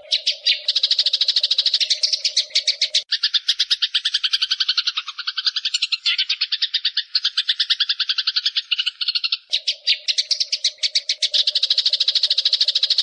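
Eurasian tree sparrows fighting, giving rapid, steady trains of sharp chirps, about a dozen a second. A steady low hum runs under the chirping for the first three seconds and again for the last few.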